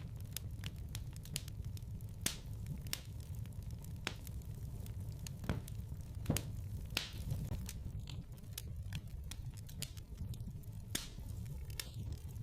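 Fire in a fireplace crackling: irregular sharp pops and snaps over a low steady rumble of the flames.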